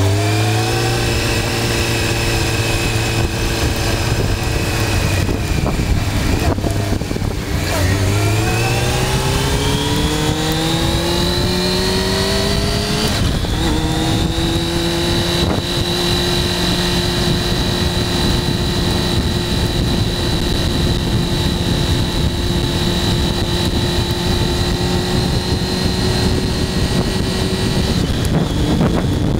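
Motorcycle engine under way: it eases off about six seconds in, climbs in pitch as it accelerates, shifts up about thirteen seconds in, then runs at a steady speed.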